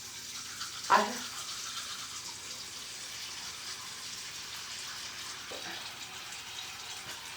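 Bathroom sink tap running steadily. A brief, louder sound comes about a second in.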